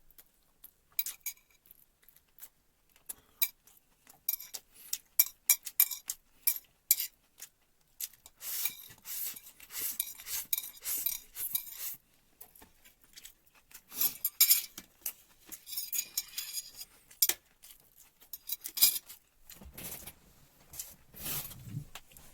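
Utensils clinking and scraping against a dish, with many sharp clicks and two longer scraping passes.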